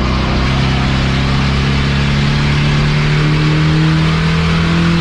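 Race car engine running at high revs, its pitch climbing slowly and steadily as it accelerates.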